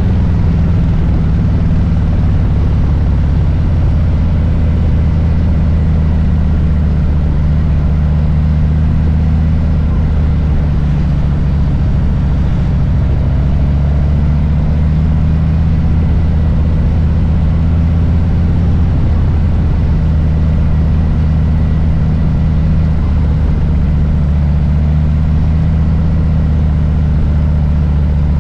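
Harley-Davidson Low Rider S's Milwaukee-Eight V-twin engine running steadily at low revs, a deep, even rumble that barely changes pitch.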